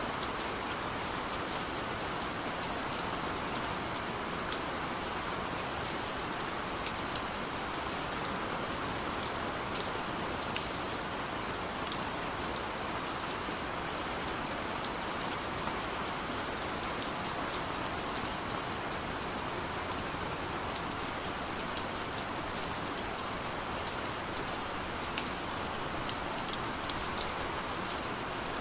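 Steady gentle rain, a continuous hiss with many small scattered drop ticks.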